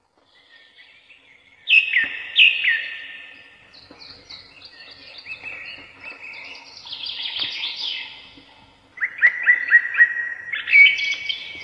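Small caged pet birds chirping: two falling chirps about two seconds in, a stretch of chattering in the middle, then a quick run of short chirps near the end.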